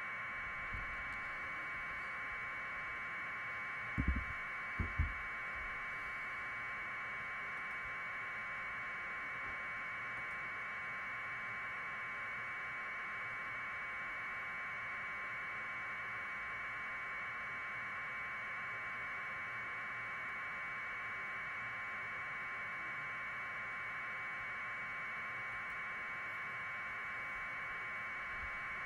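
Steady, thin electronic hiss, like static on an audio feed, unchanging throughout. A few dull knocks come about four and five seconds in.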